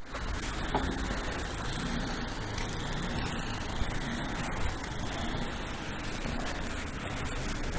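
Steady low rumble of motor-vehicle engine noise in a snowbound city street.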